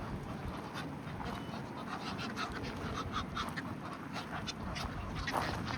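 A flock of ducks and geese calling, many short overlapping calls with a louder one near the end.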